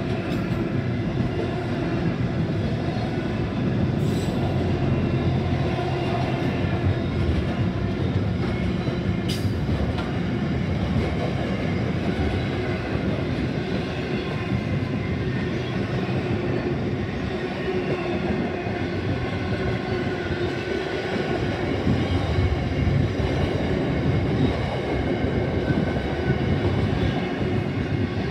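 Pacific National intermodal freight train's container wagons rolling past at a steady pace: a continuous rumble and clatter of steel wheels on the rails, with faint high squealing tones and a couple of sharp clicks.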